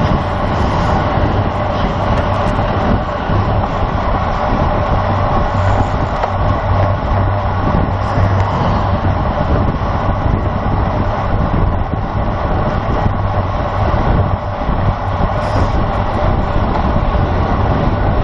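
Steady rush of wind and road noise on a racing bicycle's on-board camera microphone while riding at speed.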